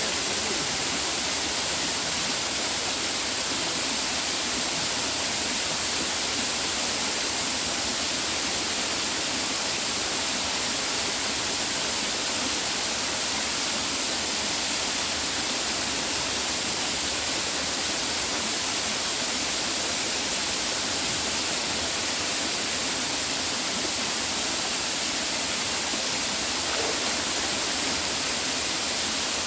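Waterfall cascade rushing: a steady, bright hiss of falling water that does not change.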